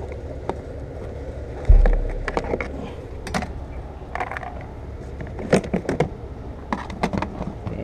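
Scattered clicks and knocks of plastic trim clips and panels being worked loose by hand, with one heavy thump a little under two seconds in.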